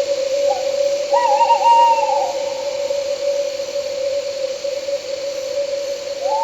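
Owl hooting: a short note, then a longer wavering hoot that drops away at its end, and another call beginning near the end. Underneath runs a steady droning tone with an even hiss, the night-insect and wind bed of the track.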